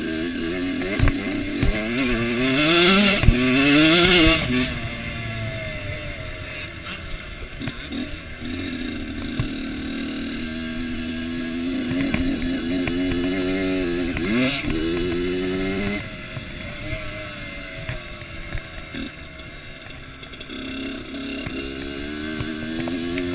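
Kawasaki KX85 two-stroke motocross engine being ridden hard, its pitch repeatedly climbing and dropping with throttle and gear changes, loudest about three to four seconds in. Short knocks from the bike hitting bumps and wind hiss on the microphone.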